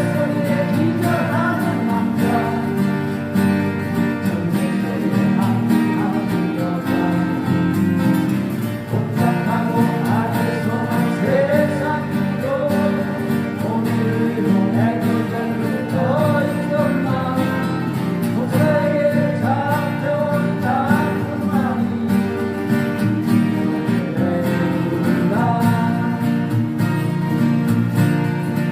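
Acoustic guitars strummed in a live performance, with a singer's voice carrying the melody.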